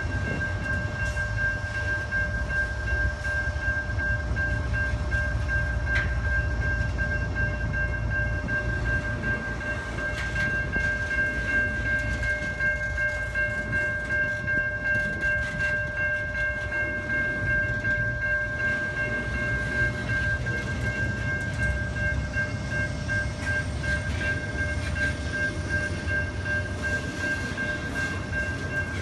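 A train rolling past with a steady low rumble from its wheels on the rails, and a steady high-pitched tone over it.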